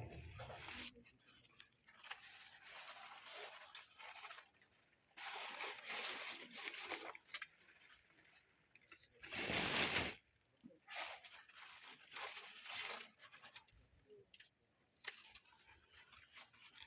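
Water splashing and sloshing in separate bursts, loudest about ten seconds in.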